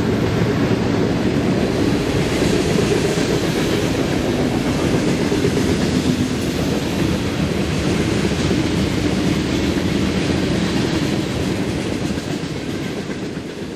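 A long freight train of boxcars and covered hoppers rolling steadily past, its wheels clattering on the rails. The sound fades away near the end.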